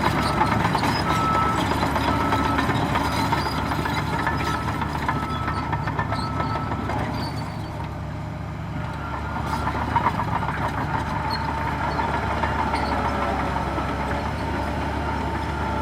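Heavy diesel earthmoving machinery running steadily, with a reversing alarm beeping about one and a half times a second for the first half, then stopping about seven seconds in.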